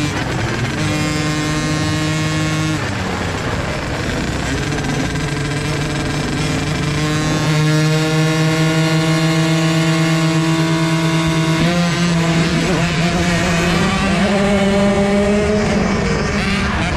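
Engine of a KTM 50 SX youth motocross bike, a 50 cc two-stroke, heard close up from the on-board camera. It holds steady high revs for several seconds at a time, drops off briefly about 3 seconds in and again about 12 seconds in, and climbs again near the end.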